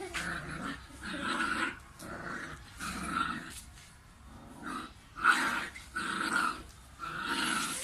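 Puppy growling in a series of short growls, with a brief lull about halfway through.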